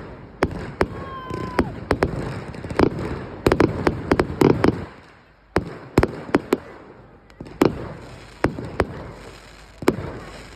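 Fireworks going off: a run of sharp, irregular bangs and cracks, with a brief whistling tone about a second in.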